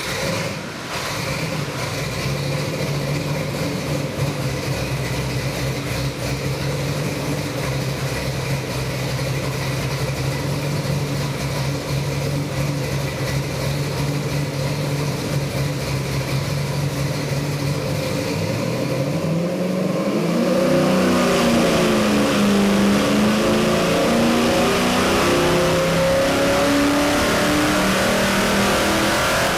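Ford 408 Windsor stroker small-block V8, built on a 351W block with a hydraulic roller cam and an 800 CFM carburetor, idling steadily, then revved about 19 seconds in, its pitch climbing and dropping with each blip of the throttle.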